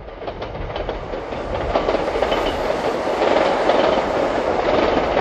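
Train running along the track, its wheels clattering over the rails with many irregular clicks. The sound swells in over about the first second, then holds steady.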